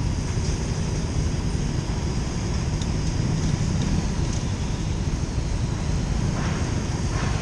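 Motorcycle being ridden, engine running steadily under a dense low rumble with no clear changes in pitch.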